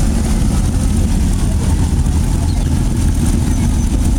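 Car engines running steadily at low speed, a constant low rumble.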